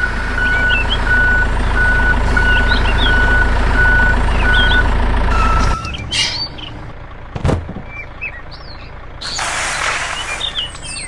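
A vehicle's motor hums steadily while a reversing beeper sounds about every half second. About six seconds in, both cut off suddenly. Birds chirp throughout, and after the cut-off there is a single thump and then a brief burst of hiss near the end.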